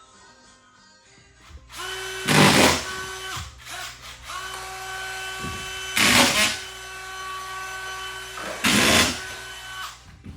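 A power tool running with a steady whine, with three loud harsh bursts, about two, six and nine seconds in, as it bites into the work.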